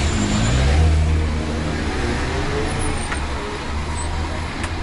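Bus engine running over steady road noise, its low pitch shifting up and down as it works, with a couple of sharp clicks.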